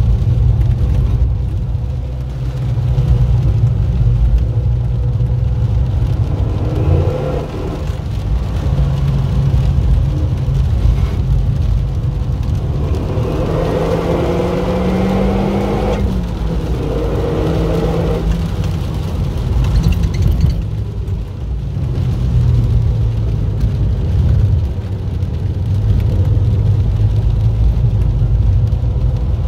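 Renault Mégane's engine heard from inside the cabin while driving on a wet track, over a steady hiss of road noise. About halfway through the engine note rises under acceleration, then drops sharply at a gear change.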